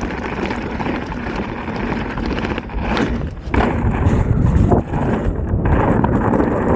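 Mountain bike riding fast down a rough, rocky trail: a constant clatter of tyres, chain and frame over rocks, with wind buffeting the action-camera microphone.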